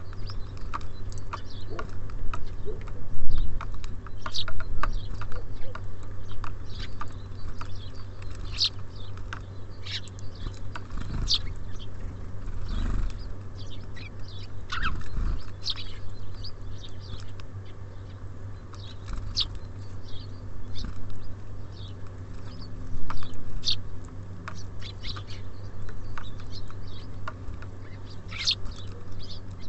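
Small songbirds, tits and sparrows, chirping at a bird feeder: many short high chirps scattered throughout, with a few low thumps and a steady low hum underneath.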